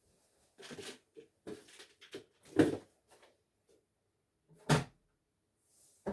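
Household handling noises: a string of short knocks and rustles, with two louder knocks about two and a half and nearly five seconds in.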